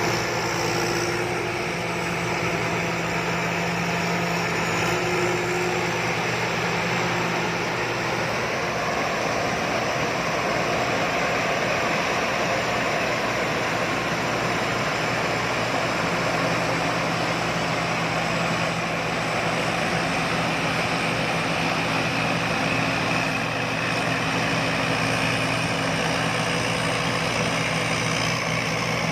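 Rice combine harvester running steadily, its engine and machinery at a constant working pace while harvesting.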